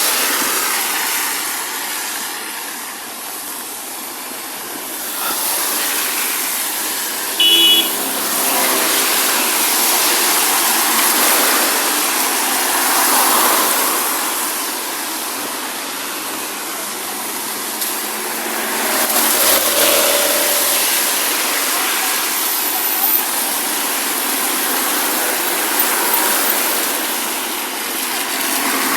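Road traffic passing on a wet road in light rain, a steady hiss that swells and fades as vehicles go by. A brief high tone sounds once about seven and a half seconds in.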